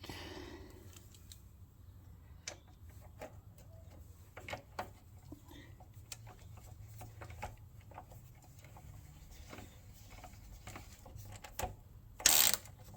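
Scattered light clicks and taps of small metal parts and hand tools being handled while a switch is fitted onto a small Honda engine, with a louder short clatter near the end.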